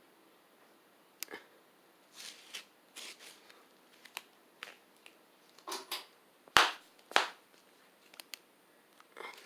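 A run of irregular sharp clicks and short knocks, about a dozen, with no steady rhythm; the two loudest, a second or so apart, come about two-thirds of the way through.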